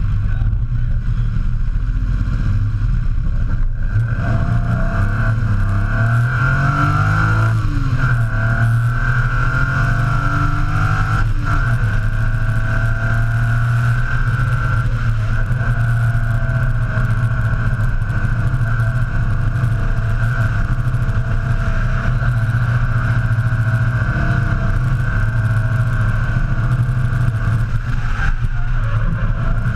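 BMW S38 straight-six engine of a drift truck running hard and steady under load, its note climbing and dropping as it revs about six to eight seconds in.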